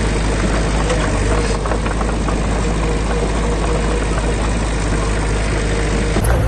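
A heavy machine's diesel engine running steadily at an even, low pitch.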